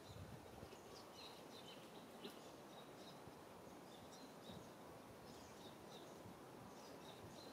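Faint outdoor ambience: a steady low hiss with short, high chirps from small birds repeating throughout.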